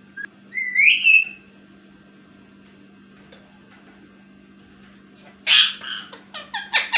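Indian ringneck parrot calling: one loud rising, gliding call about half a second in, then a quick run of sharp repeated calls near the end.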